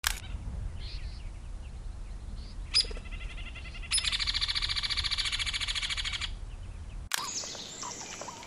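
Birds calling over a steady low rumble of outdoor ambience, with a rapid, even trill lasting about two seconds in the middle. The sound changes abruptly near the end.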